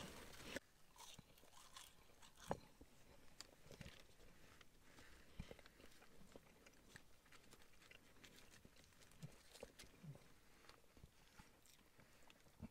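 Near silence broken by faint chewing and a few soft, scattered clicks and crunches of a man eating a steak sandwich.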